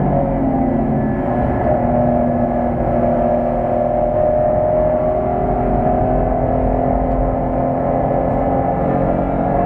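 BMW E46 M3's straight-six engine heard from inside the cabin on track, running at a fairly steady pitch, the note beginning to climb near the end as it revs up.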